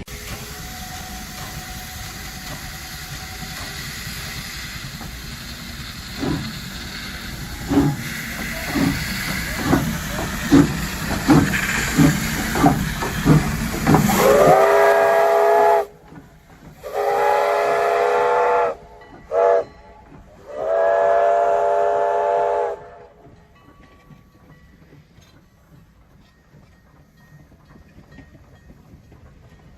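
Steam locomotive working, its exhaust chuffs coming faster as it picks up speed. Its chime whistle then sounds two long blasts, a short one and a final long one, the standard signal for approaching a road crossing.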